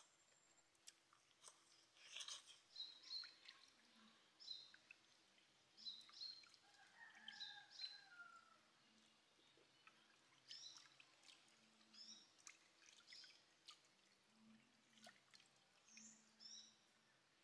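Faint forest birdsong: short high chirps repeated every second or two, with a longer falling call about seven seconds in, and a few light clicks.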